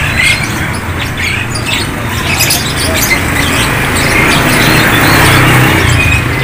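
Many caged songbirds chirping and squawking at once, short calls overlapping throughout, over a loud steady rumble of background noise.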